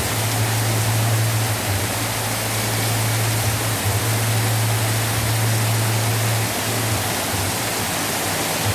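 Heavy rain pouring down as a dense, steady hiss, with a low hum underneath that drops out briefly a few times.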